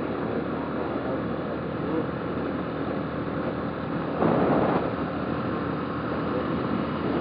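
Motorcycle running steadily under way, its engine hum mixed with wind and road noise, with a brief louder rush of noise about four seconds in.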